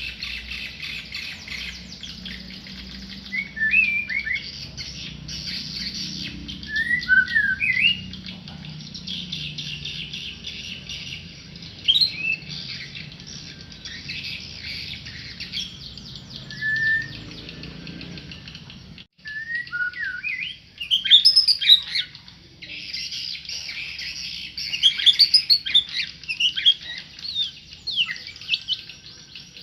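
A tame murai songbird singing short whistled phrases that glide up and down, over a constant high twittering. A low hum underneath cuts off suddenly about two-thirds of the way through.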